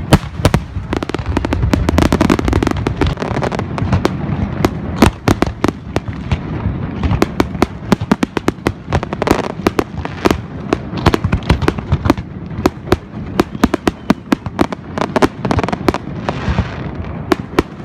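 Fireworks display: a dense, continuous barrage of sharp crackling pops over a steady rumble of bursting shells.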